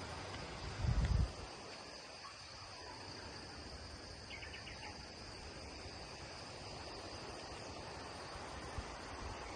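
Insects droning steadily in a high, even pitch outdoors, with a brief low thump about a second in and a short quick chirping trill a little after four seconds.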